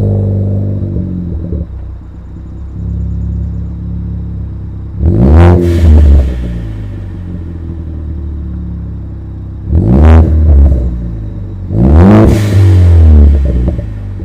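2016 Ford Focus ST's turbocharged 2.0-litre four-cylinder with COBB downpipe, cat-back exhaust and intake, starting with a loud flare that settles to idle, then blipped three times, each rev rising and dropping back to idle.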